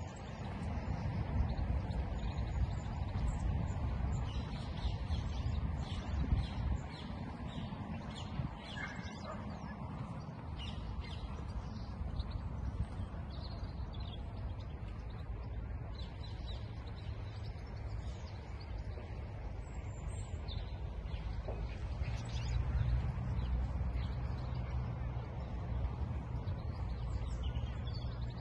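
Birds chirping and calling on and off, over a steady low rumble that grows a little stronger near the end.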